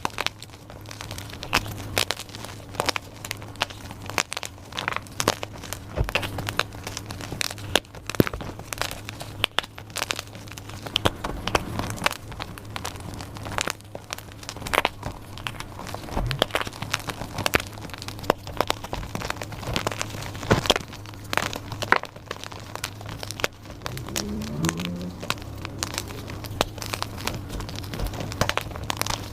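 Blocks of dyed gym chalk being crushed and crumbled, a dense, continuous run of crunches and crackles.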